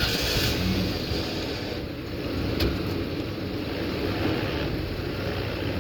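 A vehicle engine running steadily while the vehicle backs up slowly.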